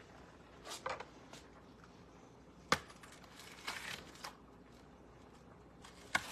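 Kitchen handling sounds during food preparation: brief rustles, a sharp knock just under three seconds in, a longer crinkly rustle soon after, and another knock near the end.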